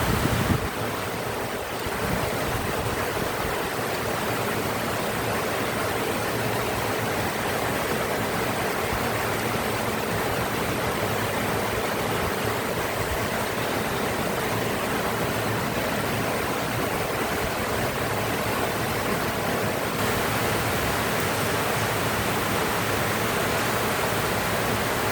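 Heavy rain pouring down in a steady, dense hiss that holds even throughout.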